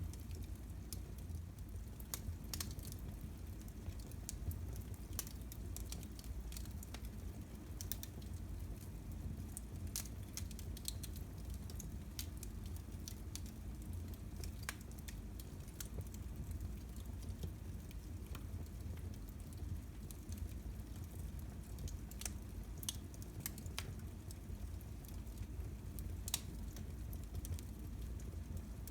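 Fire crackling in a fireplace: irregular sharp pops and snaps over a steady low rumble, with one louder pop near the end.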